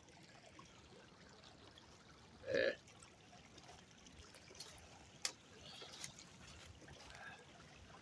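Faint trickling of river water. A brief, louder sound breaks in about two and a half seconds in, and a couple of sharp clicks follow later.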